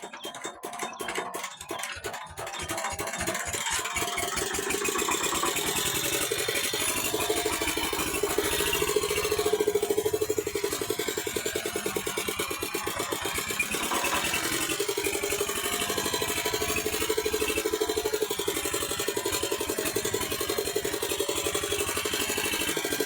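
Walking tractor's engine starting, its firing beats quickening over the first two or three seconds before it settles into a steady, fast running rhythm.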